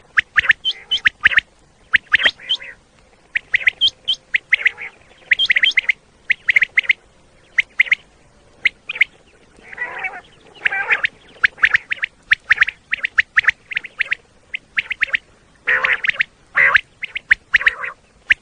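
Common quail calling: short sharp notes in quick repeated groups, with harsher, rougher calls around ten seconds in and again near the end.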